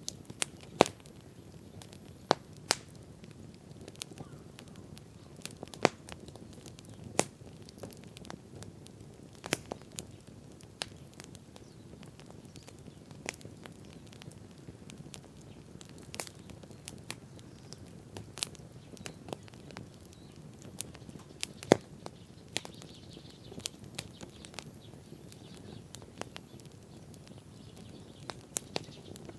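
Wood campfire crackling: irregular sharp pops, some much louder than others, over the low steady rush of the burning fire.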